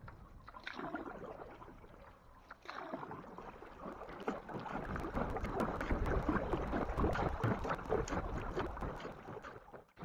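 Canoe paddles dipping and splashing in lake water, with many small splashes and drips, picking up from about three seconds in. Wind rumbles on the microphone.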